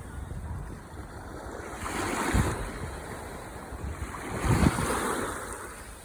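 Ocean waves breaking and washing up the shore. Two waves surge up and fall away, the first about two seconds in and a louder one about four and a half seconds in.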